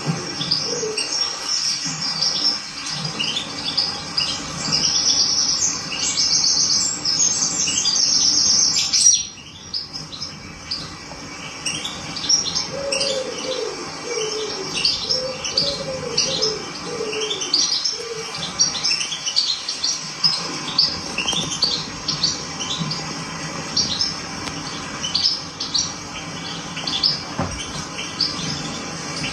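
Small birds chirping: many short, high calls repeating quickly, with some lower, downward-sliding calls among them. The whole sound drops off suddenly about nine seconds in, then the chirping carries on.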